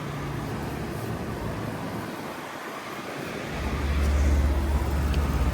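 Outdoor heat pump condensing units running in cooling mode: steady fan airflow over a low compressor hum. About three and a half seconds in, a deeper, louder hum takes over.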